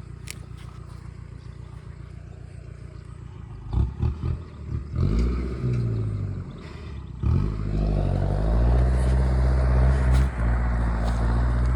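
Tractor engine idling low, then revved in several short bursts with its pitch rising and falling about four seconds in. From about seven seconds in it runs up to a steady, loud high speed.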